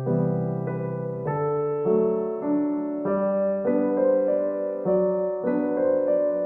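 Background music: gentle electric piano playing slow sustained chords.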